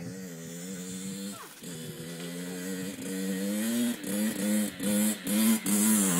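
Small dirt bike engine approaching, getting steadily louder, its pitch rising and dropping again and again in the second half as the rider works the throttle.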